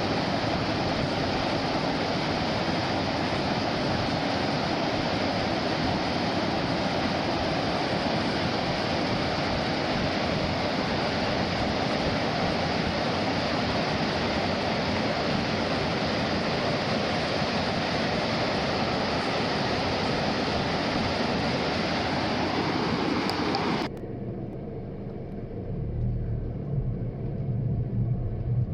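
Steady rushing of falling water, even and unbroken. About four seconds from the end it cuts off abruptly to a quieter scene, where a low engine hum rises near the end.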